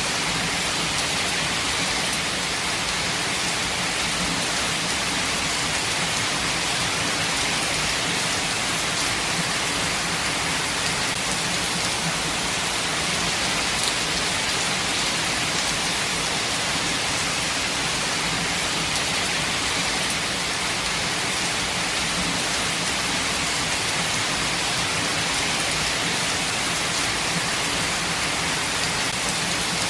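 Steady rainfall, an even, unbroken hiss of rain on the ground and foliage.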